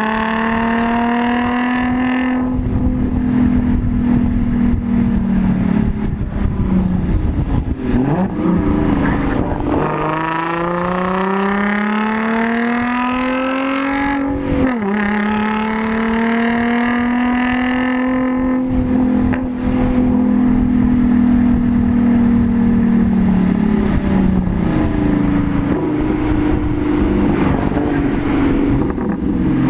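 Audi S4's supercharged 3.0-litre V6 through an AWE Touring exhaust, heard from inside the cabin under hard track driving. The engine note climbs for the first two seconds, swings up and down briefly around 7 to 8 seconds, climbs steadily again to an upshift about 15 seconds in, then holds high revs before dropping around 25 seconds.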